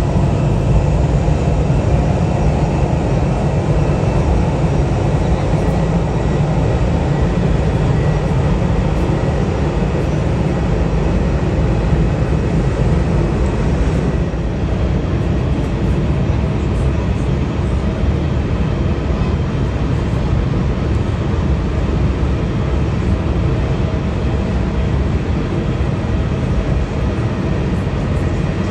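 Jet airliner engines running: a loud, steady low rumble with a faint whine above it, dipping slightly about halfway.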